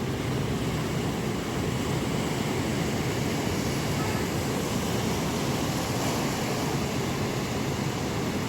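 Monsoon sea surf in strong wind: a steady, dense rush of noise with wind rumbling low on the microphone.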